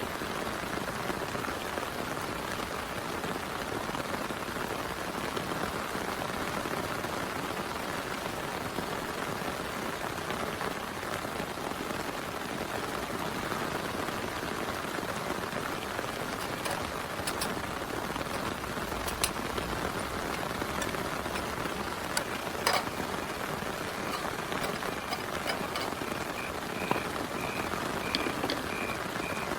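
Steady heavy rain, with a few sharper drop hits in the second half. Near the end a frog starts calling, a faint, high, pulsing call.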